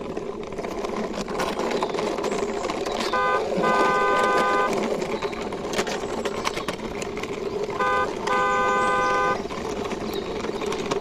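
Toy car's electronic horn sounding twice, each time a short toot followed by a longer one of about a second, over a steady whirring noise.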